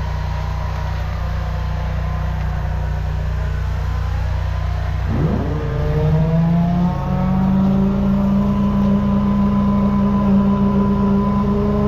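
Engine of a high-pressure drain jetter running steadily, then revving up about five seconds in and holding at a higher speed.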